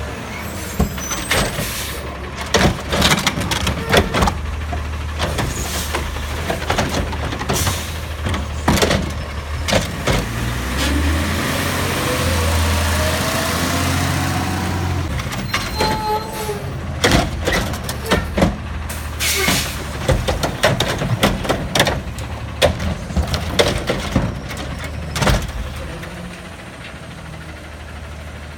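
Autocar ACX garbage truck with a Curotto-Can arm working a yard-waste pickup: the diesel runs steadily while a run of sharp bangs and clatters comes from the can and bin. Midway the engine and hydraulics rise into a louder stretch with gliding whines, and the bangs pick up again after it.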